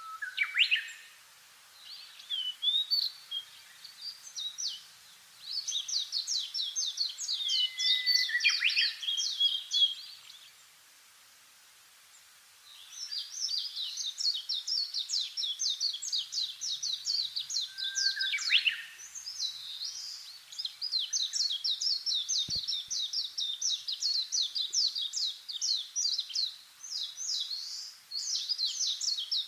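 Songbirds singing: long, fast runs of high chirps and trills, with a few sliding, down-swept calls laid over them. The singing stops for about two seconds roughly a third of the way in, then picks up again.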